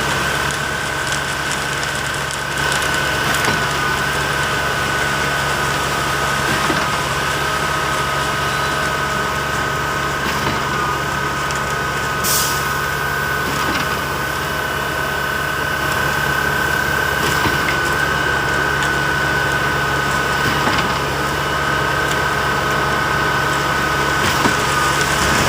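Diesel engine of a concrete truck running steadily at constant speed, with a steady whine over a low hum; a single short click about twelve seconds in.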